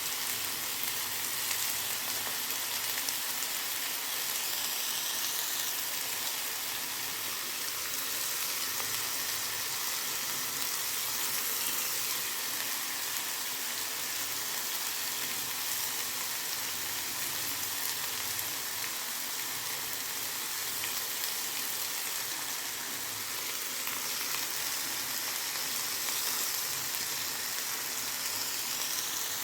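Marinated chicken pieces frying in hot oil on a grill pan, a steady, continuous sizzle.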